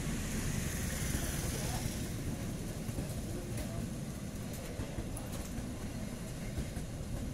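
Passenger train running past on the line: a steady rumble of wheels on rail, with a hiss higher up that fades about two seconds in.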